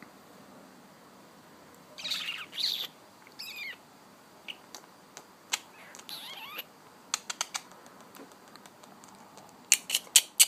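Young pet bird calling: two harsh chirps about two seconds in and a falling call just after, then a run of short sharp clicks and chirps, bunched loudest near the end.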